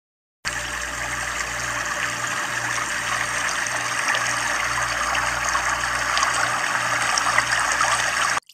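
Water boiling hard in a stainless saucepan over a gas burner, a steady bubbling hiss that starts about half a second in; potato slices are cooking in it.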